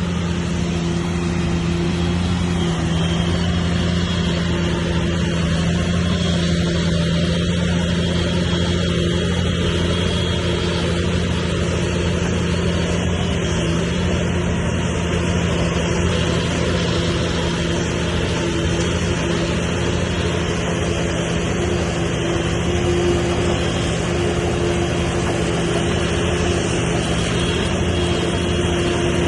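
Heavy diesel engine of earthmoving machinery running steadily, holding an even pitch throughout.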